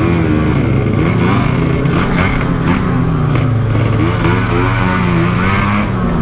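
Kawasaki Ninja 150 two-stroke single-cylinder engine in a Yamaha RX King, running through an aftermarket Packing Power exhaust while being ridden, its pitch rising and falling repeatedly as the throttle is opened and closed.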